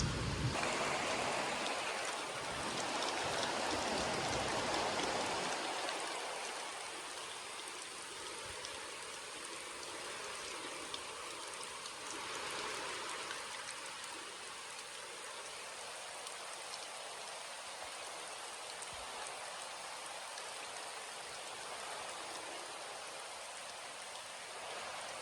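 Steady heavy rain falling on a surface, an even hiss. A low rumble dies away over the first five seconds or so.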